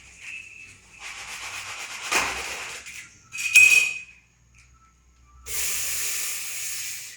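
Coconut cream being emptied from a plastic bag into a pot on the stove. There is rustling and handling noise with a sharp knock against the pot. Near the end comes a steady hissing pour of about a second and a half.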